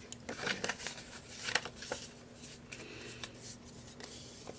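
Sheets of paper being handled and lined up by hand: scattered rustles, slides and light taps of the pages.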